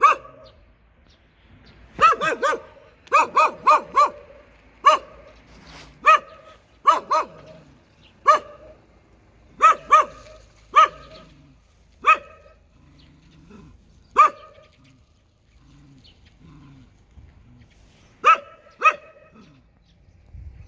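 A dog barking fiercely, in quick runs of three or four barks at first, then single barks every second or so, with a lull of a few seconds before two last barks near the end.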